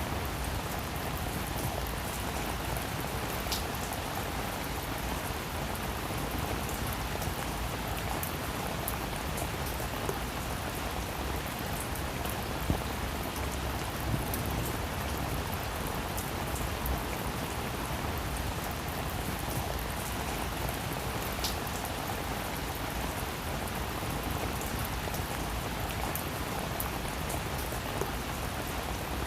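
Steady rain falling on a roof, an even patter with scattered louder single drops.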